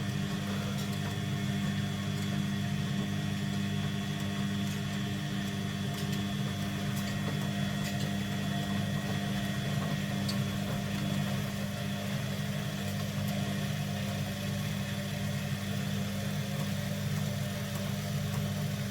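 Front-loading automatic washing machine with its back and top covers off, running with a steady, even hum made up of several constant tones.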